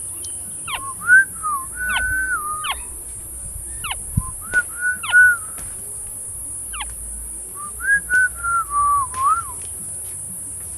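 Black-naped oriole giving clear, fluty whistled phrases, with notes that step and bend in pitch, broken by quick sharp upward-sweeping calls, in three bouts: near the start, around the middle, and a longer phrase near the end.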